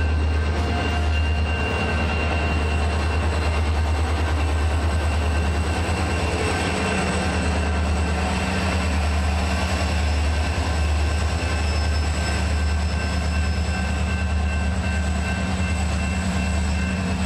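A diesel-hauled freight train rolls slowly past during a switching move: railcars first, then BNSF diesel-electric locomotives. There is a steady deep rumble throughout with a few faint high wheel tones, and a further engine note comes in about five seconds in as the locomotives draw near.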